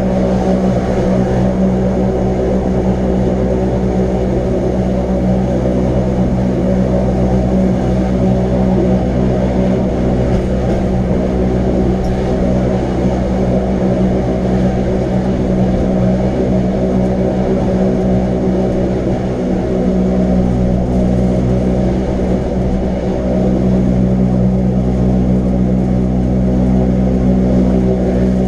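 Electric rack-railway train running steadily on the climb, a constant hum made of several steady tones over a low rumble.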